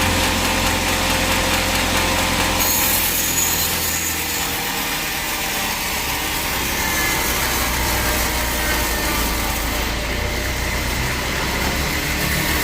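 Sawmill machinery running: an engine's steady low hum under the noise of a saw cutting wood. The low hum drops away about four and a half seconds in and comes back a couple of seconds later.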